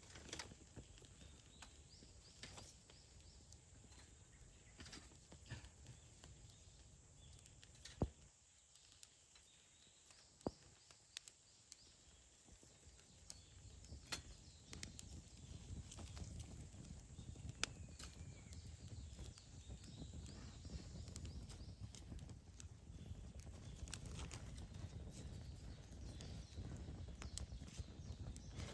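Faint, scattered clicks and knocks over a low rumble that grows louder about halfway through.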